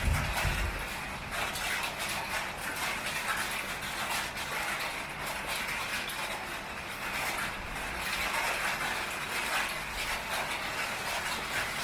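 Heavy rain pattering on a tin roof: a dense, steady crackle of countless small drop ticks. A low rumble dies away in the first second.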